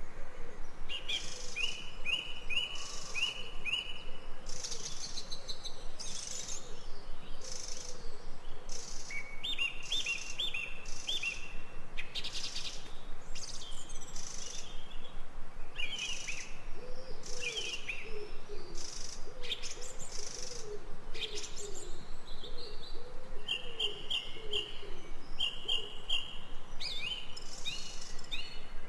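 Forest birds singing and calling: quick runs of repeated chirps, high whistled phrases, and a lower series of repeated notes in the middle.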